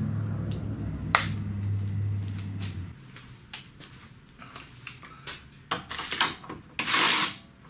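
Scattered clicks and knocks of hand tools being handled against metal, with a louder clatter near the end. A steady low hum runs underneath and stops about three seconds in.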